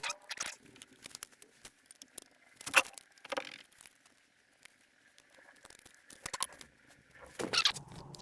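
Scattered clicks, taps and rustling from hands handling small parts and wiring, with louder knocks about three seconds in and again near the end.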